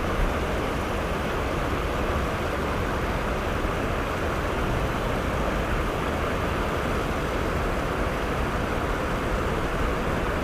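Steady rushing of a small waterfall: an even wash of falling water that does not change.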